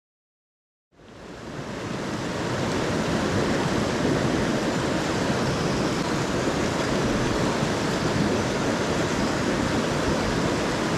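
Mountain stream water rushing steadily over rocks. It fades in about a second in after a moment of dead silence.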